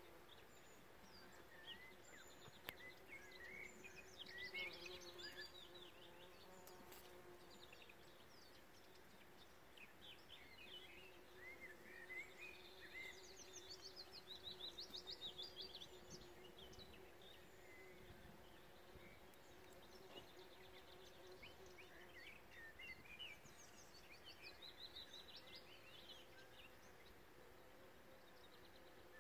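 Bees foraging among flowering field beans, humming steadily and faintly, while a bird sings three long stretches of quick, twittering song.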